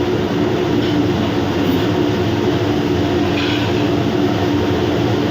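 Steady machinery rumble with a constant low hum, running evenly without change.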